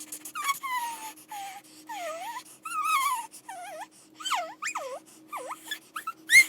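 An animal whining: a rapid run of short, high-pitched cries that swoop down and back up in pitch, ending with a louder, sharper cry.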